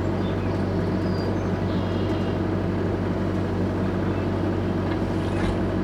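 Kubota KX121-3 mini excavator's diesel engine running steadily at a constant speed.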